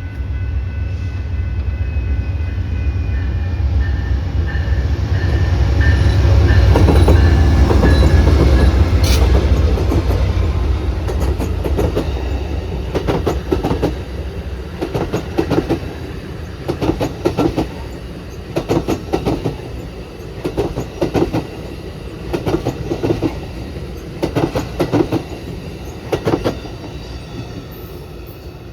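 A train passing close by. A deep rumble builds to its loudest about seven seconds in. Then the wheels clack over the rail joints in pairs about every two seconds as the rumble fades away.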